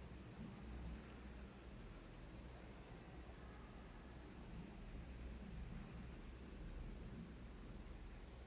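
Faint pencil shading on paper: soft, uneven scratching of graphite strokes over a low steady hum.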